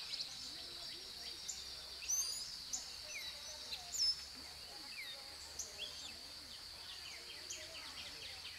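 Small birds chirping in the trees, many quick falling chirps, the loudest about two and four seconds in, over a steady high-pitched insect buzz.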